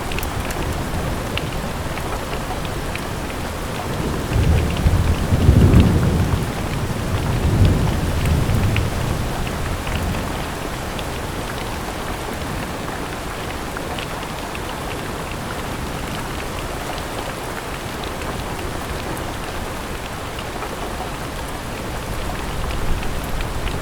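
Steady rain with scattered drop ticks, and a roll of thunder rumbling low from about four seconds in to about ten, loudest around six seconds; a fainter rumble swells near the end.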